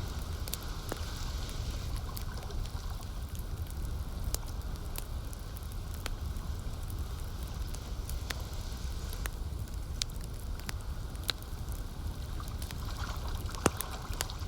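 Campfire crackling, with sharp pops scattered every second or so, over the steady low wash of lake water lapping.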